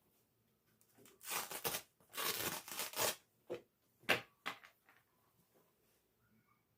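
Two short bursts of rustling or tearing noise, followed by four quick sharp knocks or clicks, from household things being handled.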